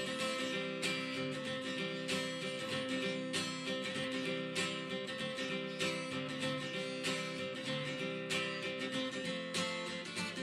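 Music with strummed acoustic guitar chords in a steady rhythm.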